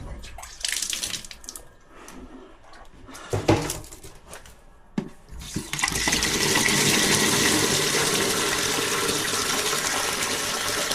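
A few handling knocks and clatters, then about halfway through water starts rushing steadily: the hot-water boiler system being filled and purged of air, the water running through solid with no air in it.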